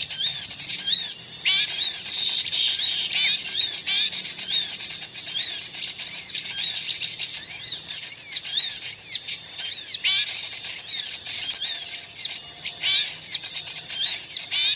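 Many small songbirds chirping at once: a dense chorus of short, high, arching chirps, several a second, without a break.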